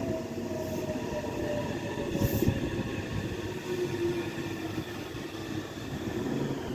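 Meitetsu electric train running by, its motors whining in several steady tones that shift slowly in pitch over the rumble of the wheels on the rails. A couple of brief sharp clicks or squeaks come from the wheels.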